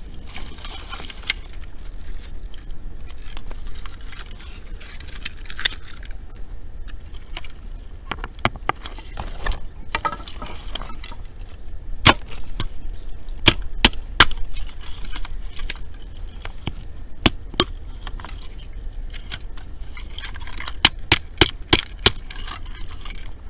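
Campfire of dry wood burning, crackling with sharp pops that come scattered and in quick runs.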